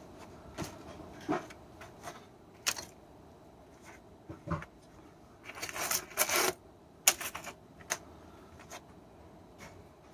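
Pieces of scrap metal from broken-down transformers being handled: irregular clinks and knocks, with a burst of clattering about halfway through and a sharp click just after.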